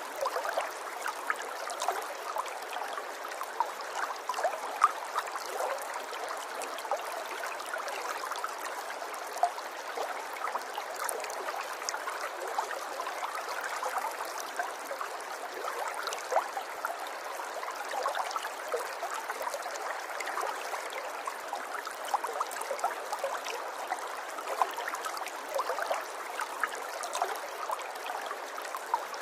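River water running and gurgling over stones, a steady babble dotted with many small splashes.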